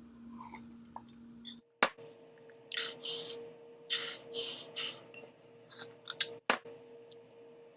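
Eating sounds from a spicy ramen challenge: several short hissing mouth sounds of about half a second each, with sharp clicks and light clinks of utensils against a dish.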